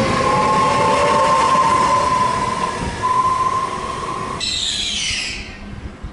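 Trenitalia regional electric multiple unit running past close by: loud running noise with a steady high whine. The sound cuts off abruptly about four seconds in, followed by a brief high hiss and a much quieter background.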